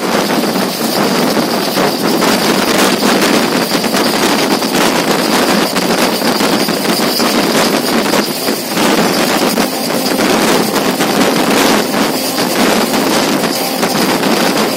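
Passenger train running at speed, heard from inside at an open window: steady rushing wind on the microphone over the running noise of the carriage on the rails.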